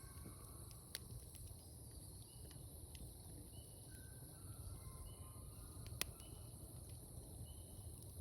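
Wood fire crackling with scattered sharp pops, a small one about a second in and a louder one near six seconds. Behind it run a steady high insect trill and a few short, faint chirps.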